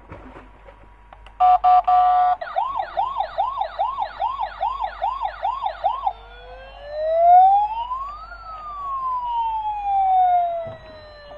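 Toy police car's electronic siren sound: a short run of rapid beeps, then a fast yelping siren at about two and a half cycles a second, then a slow wail that rises and falls once.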